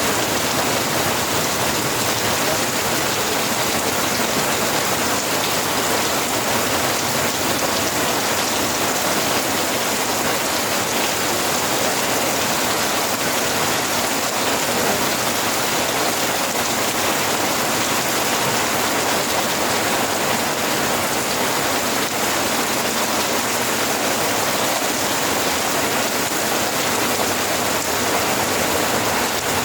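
Steady rain falling, an even hiss of drops on surfaces with no let-up or change.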